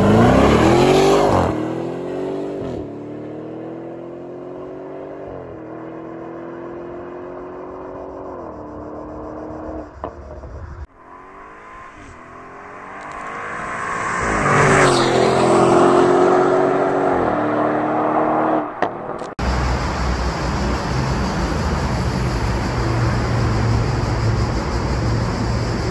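Audi S8's twin-turbo V8, stage 1 tuned to about 700 hp, launching hard and accelerating away, its pitch climbing and dropping at each upshift as it fades. After a cut the car comes back at speed, getting loud as it passes close and shifting up again. Then steady road traffic noise in a tunnel.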